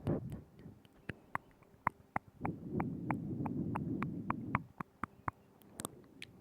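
Close-miked ASMR mouth sounds: scattered wet clicks and pops of the lips and tongue, with a softer low rustle for about two seconds in the middle.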